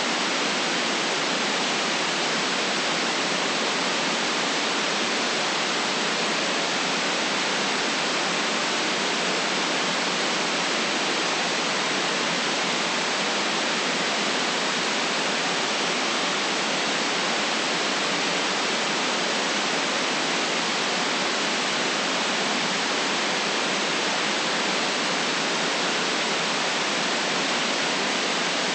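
Steady, unbroken white noise hiss, even across the upper and middle range with little bass, with no changes or separate events.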